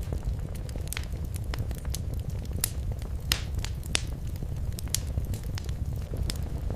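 Wood fire crackling in a fireplace: irregular sharp pops and snaps over a steady low rumble of the flames, with a few louder pops in the middle.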